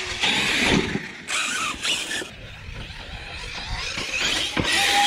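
Electric RC monster truck driving hard, its motor and drivetrain whining in several bursts of throttle.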